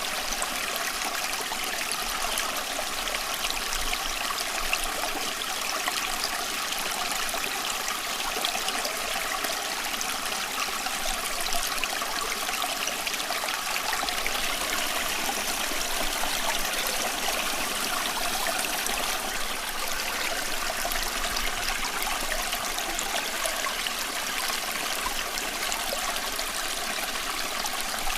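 Running water, a steady, unbroken babbling rush with no pauses or separate splashes.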